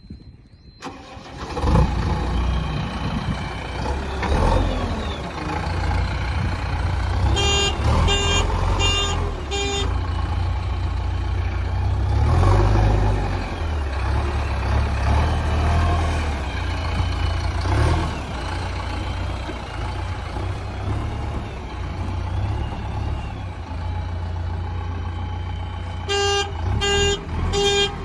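JCB backhoe loader's diesel engine running as the machine travels. Twice a horn sounds in short repeated beeps, about two a second: once about eight seconds in and again near the end.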